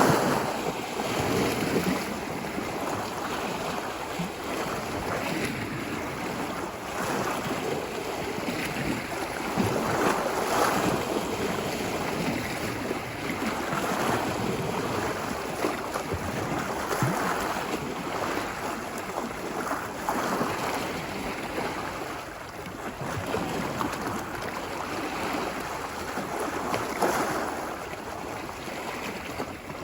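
Ocean surf washing ashore on a beach: a continuous rushing wash that swells and eases, with stronger surges about ten seconds in and again near the end.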